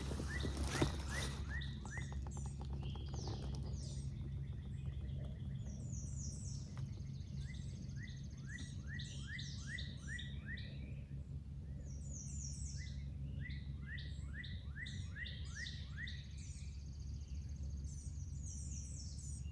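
Songbirds singing, with repeated series of quick down-slurred chirps, over a steady low background rumble. A few knocks sound in the first second.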